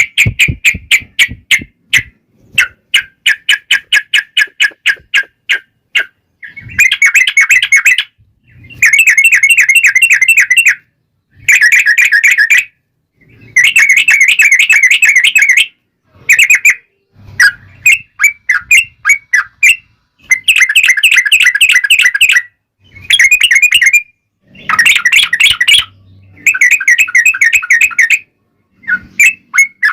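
Yellow-vented bulbul (trucukan) singing: a quick run of sharp repeated notes, then a series of loud bubbling, chattering phrases of one to two seconds each with short pauses between.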